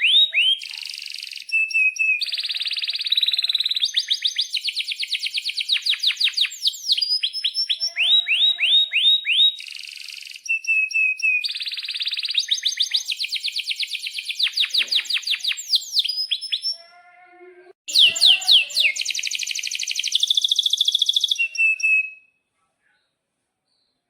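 Domestic canary singing a long, fast song of rapid trills and rolls of repeated sweeping chirps. It breaks off abruptly near the end and falls silent.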